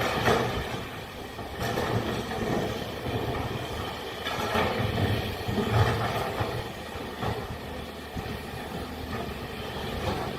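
Heavy diesel engine of a large excavator running steadily, with its loudness swelling briefly several times as it works.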